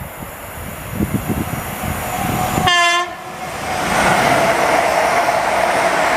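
Diesel locomotive horn giving one short blast as the train approaches, followed by the loud, dense rumble of the locomotives passing close by.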